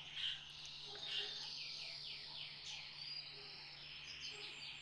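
Faint bird song in the background: a run of quick, repeated high chirps, with a faint steady hum beneath.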